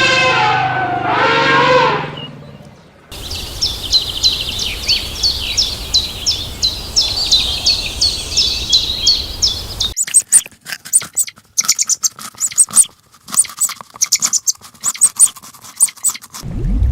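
An animal call that bends up and down in pitch. Then a bird chirping in a fast run of high, falling notes, about four a second. Then a stretch of sharp irregular clicks and taps.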